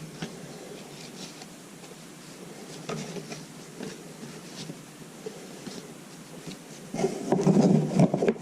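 Trading cards being handled and sorted, with small scattered ticks and rubs as cards slide against each other. Near the end comes a louder stretch of rustling and knocking, lasting about a second.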